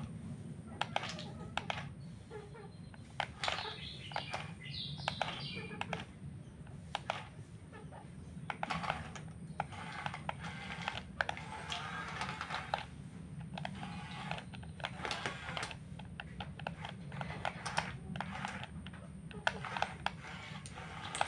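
Small electric motors of radio-controlled excavator and bulldozer models running with a steady low hum. Irregular clicks, rattles and scraping come from the gears and from soil and pebbles being moved.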